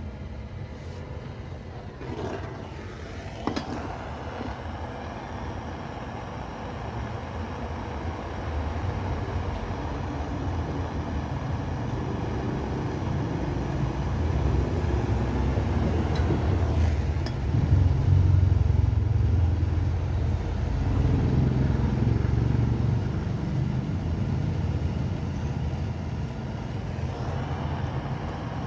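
A motor vehicle's engine running nearby: a low rumble that grows louder through the middle and eases somewhat near the end, with a few sharp clicks.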